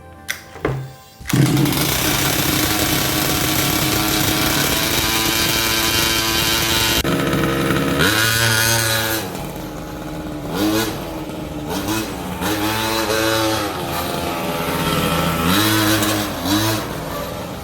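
Small two-stroke gas engine of a 1/5-scale RC monster truck, running. About a second in it jumps to a steady high-revving run that holds for several seconds, then from about eight seconds in the throttle is blipped again and again, the revs rising and falling.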